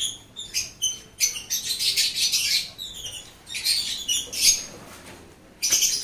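Small birds chirping in short, high, irregular calls that come every fraction of a second.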